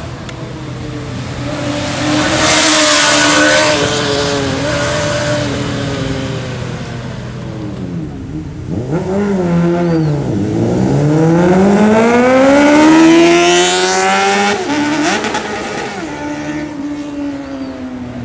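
Sport motorcycle engines revving in the street. A couple of seconds in, one gets loud with its pitch slowly falling. About ten seconds in, a bike accelerates hard, its pitch rising steadily for some four seconds before it cuts off sharply.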